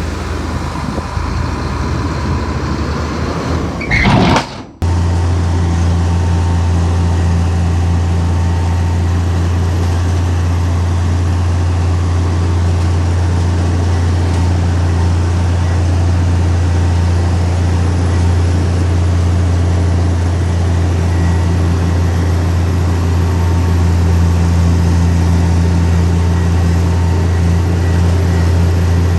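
Heavy diesel engine of earthmoving machinery running. About four seconds in there is a brief loud noise and a momentary dropout, after which the engine drones steadily and low, with no change in pitch.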